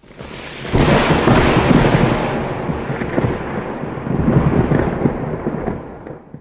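Thunder rumbling during heavy rain, building about a second in, swelling again later, then dying away before cutting off suddenly.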